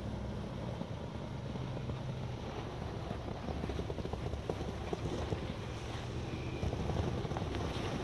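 Off-road 4x4 vehicle engine running steadily at low revs, with scattered crackles over it.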